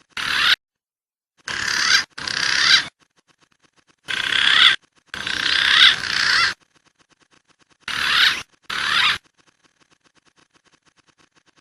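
Recorded pigeon lure calls, most likely punai (green pigeon): seven high, warbling whistled phrases, some in close pairs, each swelling and then cutting off abruptly as if edited into a loop.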